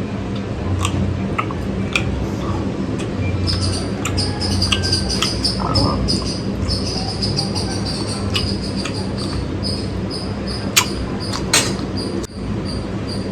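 High-pitched insect trill, steady with short breaks, starting a few seconds in over a steady low hum, with scattered sharp clicks.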